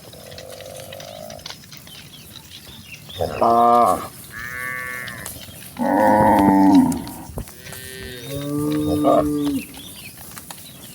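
Several cows mooing one after another: about five drawn-out calls of differing pitch, the loudest about three and six seconds in.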